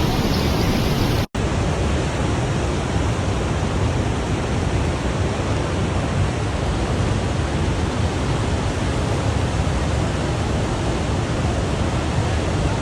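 Floodwater rushing past in a loud, steady churning noise, broken once about a second in by a split-second dropout to silence.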